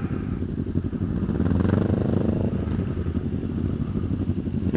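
Large-capacity motorcycle engines running as bikes arrive, a steady low rumble, with one engine rising and falling in pitch about a second and a half in.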